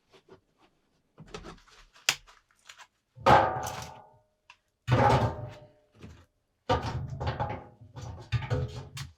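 Heavy thuds of work on a house: a loud one about three seconds in, another about five seconds in, then a run of knocks near the end, each with a short ringing after it.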